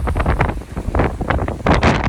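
Strong Santa Ana wind gusting against the microphone: a constant low rumble with loud, irregular gusts that come and go several times a second.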